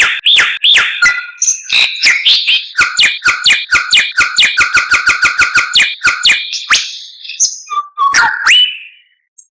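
White-rumped shama (murai batu) singing: a few repeated arched whistled notes, then a fast run of sharp repeated notes about four a second, ending with a rising whistle near the end.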